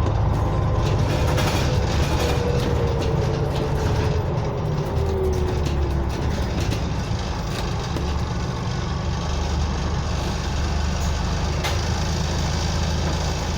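Scania OmniCity single-decker bus heard from inside the passenger cabin while under way: a steady low engine and drivetrain drone, with a whine that falls in pitch over the first six seconds.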